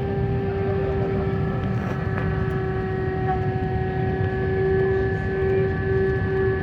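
Steady hum and low rumble of an Airbus airliner's engines, heard inside the passenger cabin, with several unchanging tones over the rumble.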